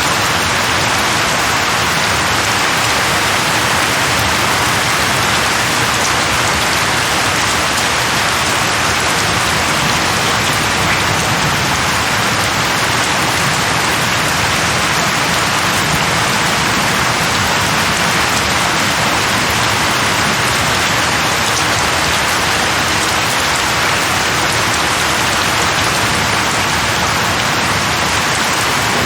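Steady, heavy rain falling on a surface: an even, continuous hiss with no breaks or distinct drops standing out.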